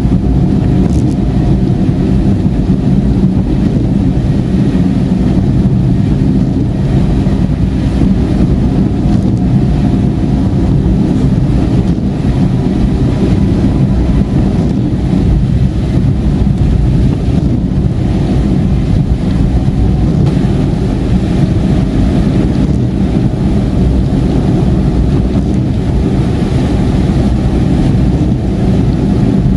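Car driving on a rain-soaked motorway: a steady, loud low rumble of tyres on the wet road and engine.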